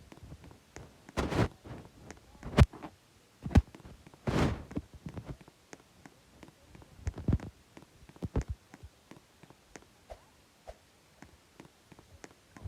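A series of irregular thumps and knocks, a dozen or so short hits at uneven gaps, the heaviest in the first half.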